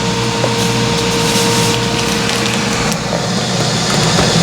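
Dry rustling of cornmeal being poured into a plastic zip-top bag, over the steady hum of an air fryer preheating.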